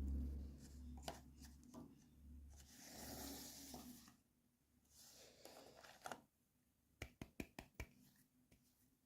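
Faint handling noises from unboxing toy packaging: a short rustle about three seconds in, then a quick run of sharp clicks near the end.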